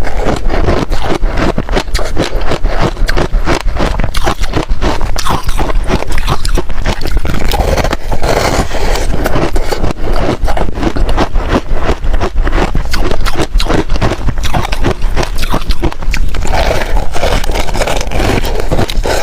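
Close-miked crunching and chewing of freezer frost, a dense run of crisp, irregular crunches several times a second.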